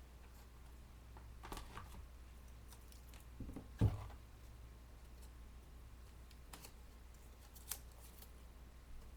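Scattered small clicks and rustles of craft materials being handled on a work table, with one louder thump a little before the middle, over a steady low hum.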